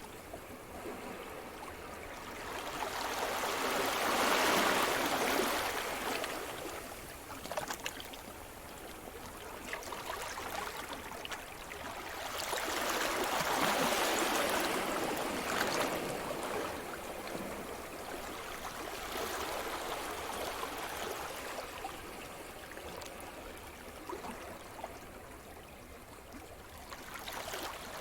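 Sea surf: waves breaking and washing ashore in slow swells, two larger waves building and fading about nine seconds apart, with a steady hiss of water between them.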